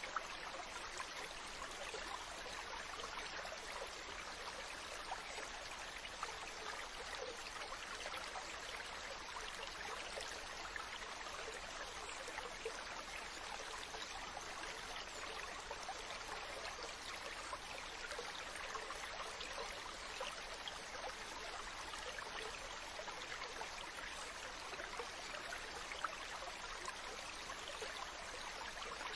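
Ocean water washing, a steady fizzing hiss with no distinct rise and fall of separate waves.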